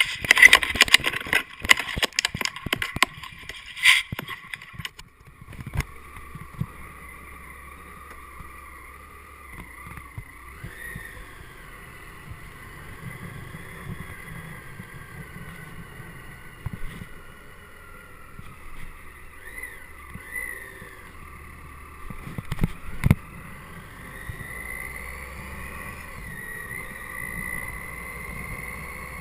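Clicks and knocks for the first few seconds. Then a Triumph Tiger 800XC's three-cylinder engine and wind rush heard on the move, steady underneath, with the engine note rising and falling a few times and one sharp knock near the end.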